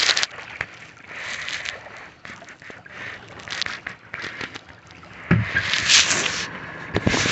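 Kayak paddle strokes: the blade splashes in the water every second or two, with drips and swishes between strokes. A few low knocks come near the end.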